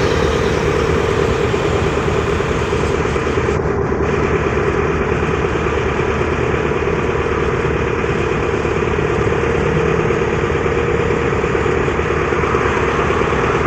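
Vehicle engine running steadily, with a constant hum and a steady rumble that does not rise or fall.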